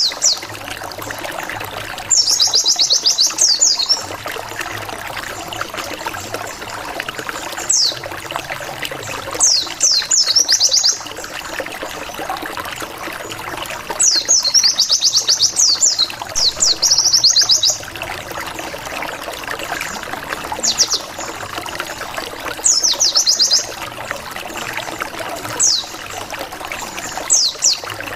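White-eye (pleci) singing in short, rapid flurries of high, sharply falling notes, each burst a second or two long and repeated every few seconds, over a steady trickle of water.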